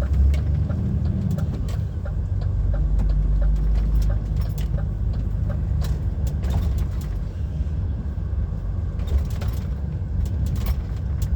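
HGV's diesel engine running, with road noise from the cab as the truck drives on a wet road. Short clicks are scattered throughout.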